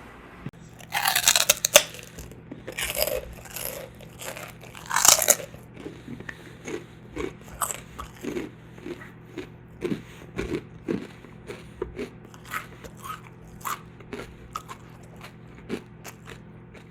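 A person biting into crunchy food three times in the first few seconds, then chewing it with short crunches about two a second.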